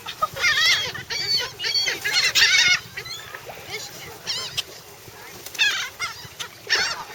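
A flock of gulls calling, crowding to be fed. Many short, squealing cries overlap in bouts, thickest over the first three seconds and again near the end, with a sparser stretch in between.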